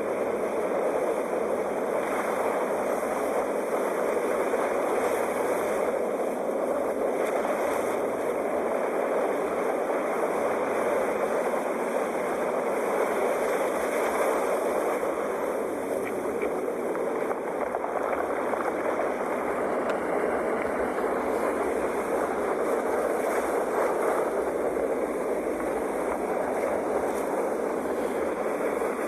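Ocean waves: a steady, even rush of surf with little rise and fall.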